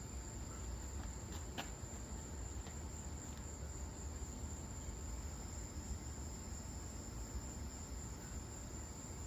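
A steady, high-pitched insect trill held at one pitch over a low hum, with a few faint clicks about one and a half to three and a half seconds in.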